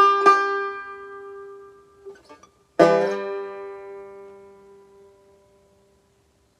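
Banjo: the last two picked notes of a roll ring out and fade, then about three seconds in a single chord is struck and left to ring until it dies away.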